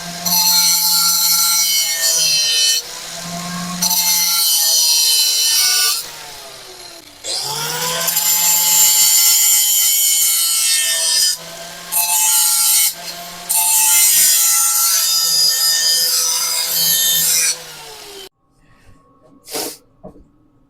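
A handheld power grinder working on metal to strip old paint, its motor whine shifting as it is pressed on and eased off the work. About six seconds in it winds down and then spins back up, and near the end it stops, followed by a single knock.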